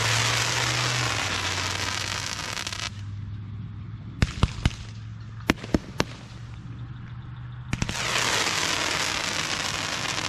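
Consumer fireworks going off: a long spell of dense crackling, then several sharp separate bangs, then another long spell of crackling.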